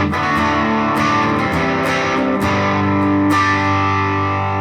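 Electric guitar played through the Positive Grid Reactor 50 combo's Grit channel with the heat control all the way up: four strummed, distorted chords, each left ringing until the next.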